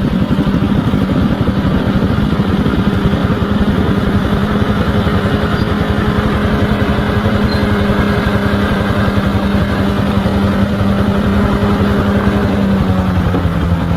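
Bulldozer's diesel engine running steadily under power, a constant, even engine note.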